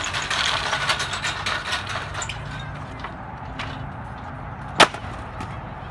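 Crackling and clicking of a fixed-gear bike rolling over gritty pavement, over a low steady hum, with one sharp clack near the end.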